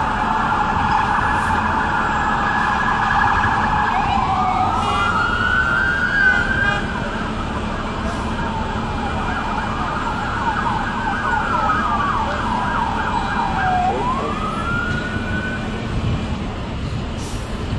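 Emergency vehicle siren sounding: a fast yelp for the first few seconds, then a slow rising-and-falling wail that stops about sixteen seconds in, over street traffic noise.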